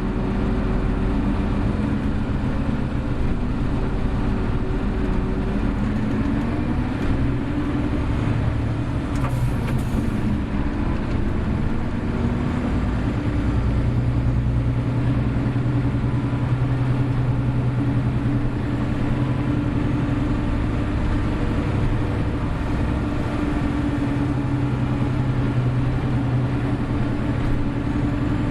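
Hino Blue Ribbon City Hybrid bus (BJG-HU8JLFP) under way. Its diesel engine note rises and settles several times as the bus pulls and shifts, with steady stretches in between. A brief hiss comes about nine seconds in.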